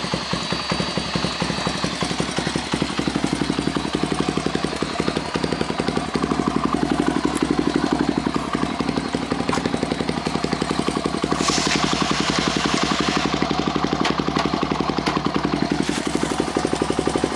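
Honda Ape 100's single-cylinder four-stroke engine running at a steady idle with a quick, even exhaust beat. A brief hiss rises over it about eleven seconds in.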